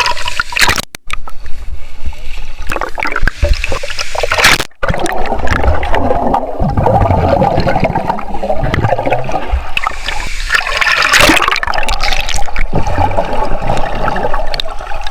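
Loud, steady rush of falling and splashing water at a waterfall, close to the microphone. The sound cuts out briefly twice, about one second and about five seconds in.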